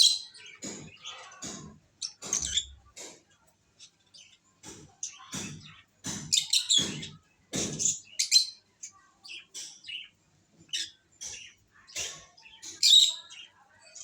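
Pet lovebirds chirping: many short, sharp high calls in quick irregular succession.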